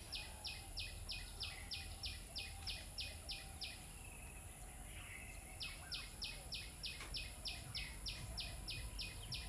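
A high-pitched chirp repeated about four times a second, breaking off for about two seconds midway and then starting again, over a low steady hum.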